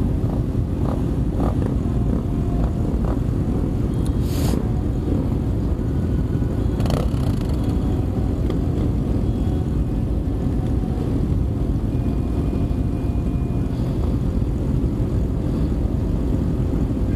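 Motorcycle running, heard through a helmet-mounted camera's microphone as a steady dense rumble mixed with wind noise. There are two brief sharp noises, about four and seven seconds in.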